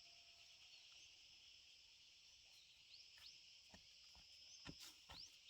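Faint steady high-pitched chirring of insects, with short rising bird chirps over it. From about three seconds in, a few soft knocks or steps.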